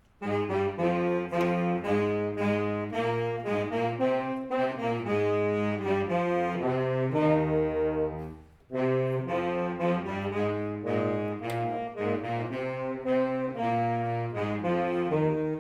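Concert wind band playing a passage in full ensemble, saxophones and brass prominent, moving through chords; about halfway it holds a long chord, breaks off for a moment, then plays on.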